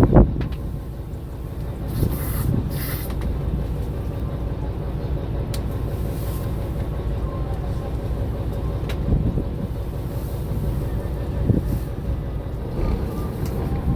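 Fishing boat's engine running with a steady low rumble, with a few short knocks and clicks on deck.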